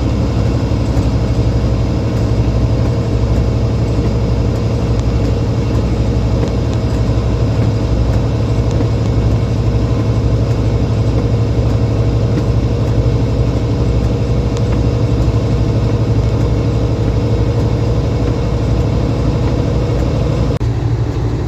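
A semi truck's diesel engine drones steadily, heard from inside the cab while driving at road speed, with the defroster fan blowing.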